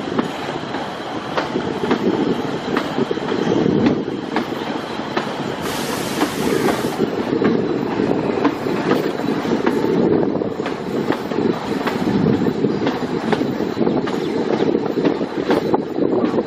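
Narrow-gauge passenger coach running along the track, heard from inside with a steady rumble and rattle as the wheels click regularly over the rail joints. A brief hiss comes about six seconds in.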